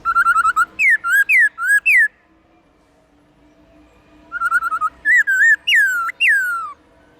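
Black-throated laughingthrush singing loud, clear whistled phrases twice: each opens with a quick run of about six short notes and ends in three or four falling, slurred whistles, with a pause of about two seconds between the phrases.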